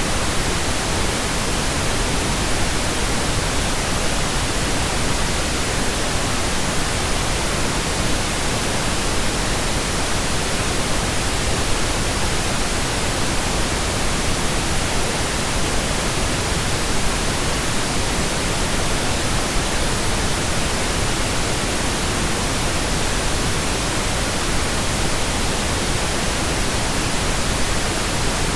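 Steady, unbroken pink noise from a synthetic signal generated in software: an even hiss spread across all pitches, with no change in level.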